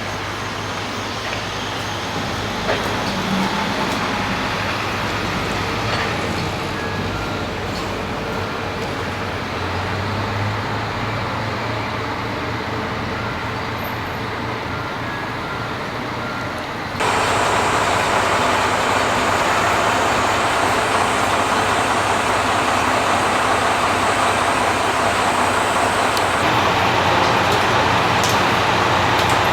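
JNR-era diesel railcar running with a steady low engine drone. About halfway through the sound cuts abruptly to a louder, hissier running sound.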